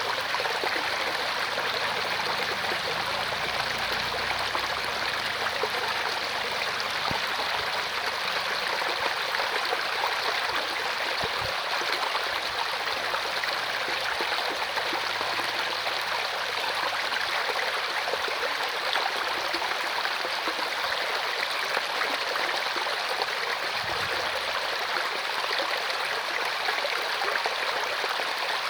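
Mountain valley stream running over rocks: a steady, even rush of flowing water.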